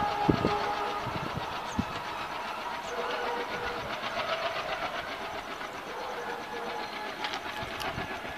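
Express passenger train's coaches running away along the track, the sound of the wheels on the rails fading steadily as the last coach recedes.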